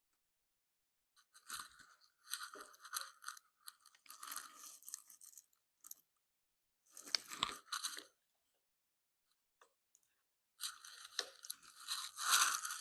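Rustling, crackling handling noise in four short spells as a choke cable is worked by hand into the mini motorcycle's handlebar control housing.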